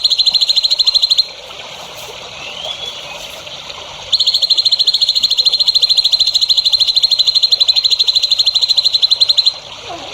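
A high, rapid, evenly pulsed buzzing trill from a bird-training call recording, sung in two long runs: one stops about a second in, the other starts about four seconds in and cuts off near the end. Between the runs there are faint chirps and a soft trickle of water.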